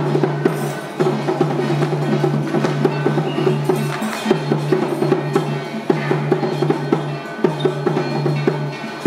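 Temple-festival percussion music: drums and sharp wood-block-like strokes over a steady low drone that drops out briefly several times.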